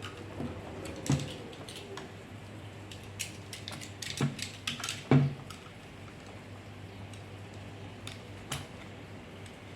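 Scattered clicks and knocks of small hard plastic juicer parts being handled and worked by hand, the loudest a little after one second and around four and five seconds in, over a steady low hum.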